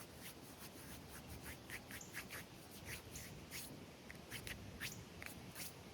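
Faint, irregular small clicks and crackles, a few each second, as hands tacky with pine resin are pressed and worked.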